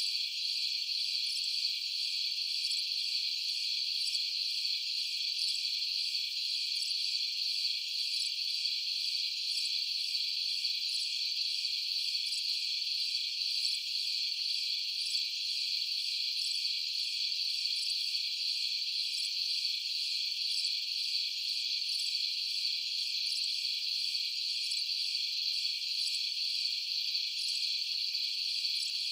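Dense chorus of crickets chirping, a steady high-pitched trill that never breaks.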